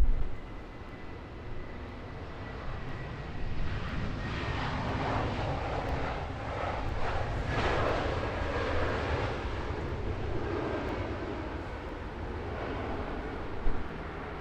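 Jet airliner passing, its engine noise swelling to a peak about halfway through and then fading, over a steady low rumble.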